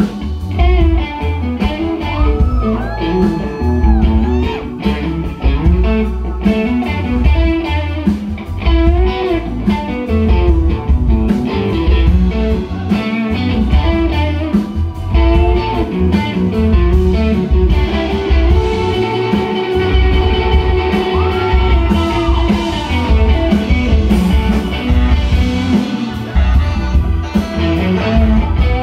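Live blues-rock band playing: an electric guitar lead with bent notes over bass, drums and Hammond organ.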